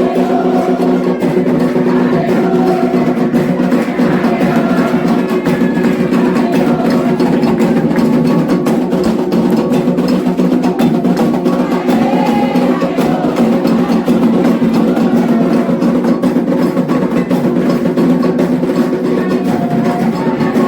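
Candomblé ritual music: hand drums and a sharp struck percussion pattern play a continuous beat, with sustained pitched sound and voices singing over it.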